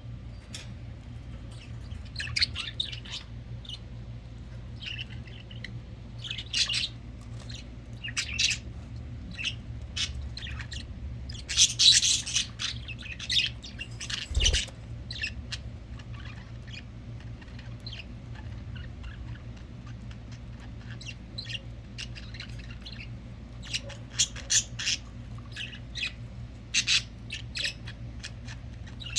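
Pet budgerigars chirping and squawking in short, scattered calls. There is a busier flurry about twelve seconds in and another near the end, and a single soft bump midway.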